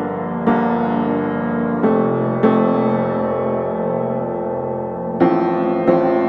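Background piano music: slow chords struck about five times, each left to ring and fade.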